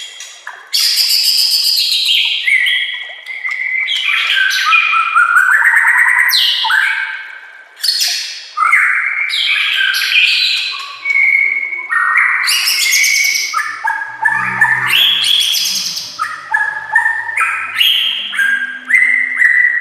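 White-rumped shama (murai batu) singing loudly in a long, varied run of stepped whistled phrases and fast trills, with only brief breaks between phrases.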